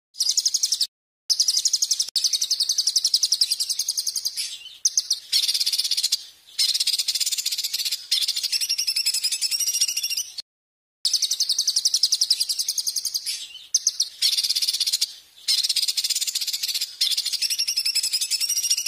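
Songbird singing loud, shrill, very rapid trills high in pitch, in phrases of one to three seconds broken by short pauses. The same run of phrases starts over about halfway through, as a looped training recording does.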